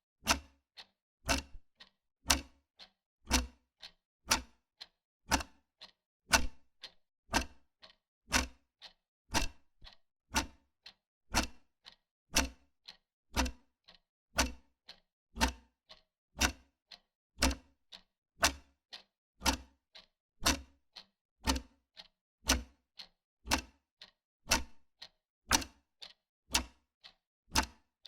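Wall clock ticking steadily, with a loud tick about once a second and a softer tock between each pair.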